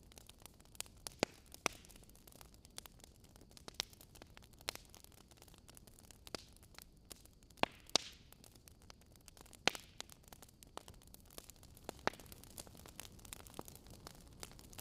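Wood fire crackling softly: irregular sharp pops and snaps over a faint low hiss, a few louder pops around the middle.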